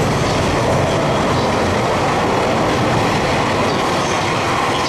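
Freight train of container flatcars rolling past at speed: a loud, steady noise of steel wheels running on the rails.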